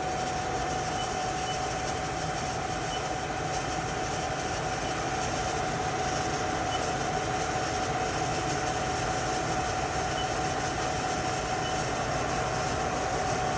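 Trak DPM CNC vertical bed mill running, its spindle turning at about 2800 RPM in high gear: a steady mechanical hum with a constant whine.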